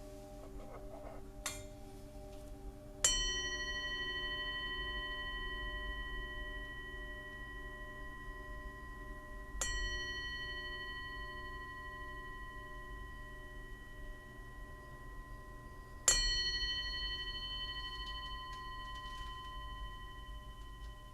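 A singing bowl struck three times, about six and a half seconds apart, each strike ringing on in long, slowly fading tones over a steady lower ringing that continues throughout.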